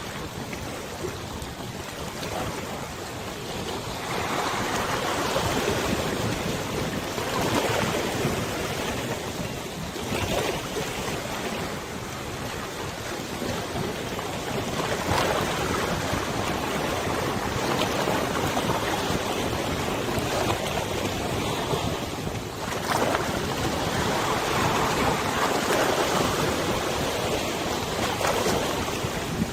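Wind over a wide river with small waves lapping, the rush of water and wind swelling and easing every few seconds.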